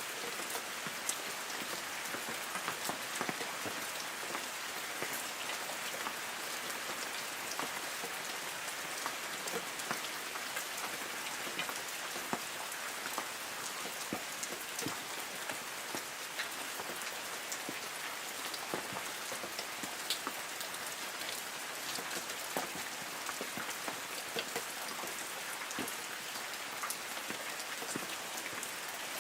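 Light rain falling steadily on forest trees: an even patter with many separate drops ticking on leaves.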